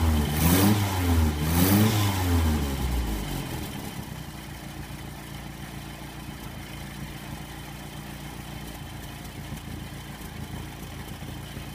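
Freshly rebuilt Sunbeam Alpine four-cylinder engine running on a test bench. It is revved up twice in the first few seconds, then settles to a steady idle.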